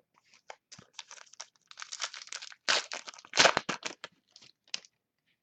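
A card-pack wrapper crinkling and tearing as it is opened by hand, in a run of irregular crackles that are loudest about halfway through.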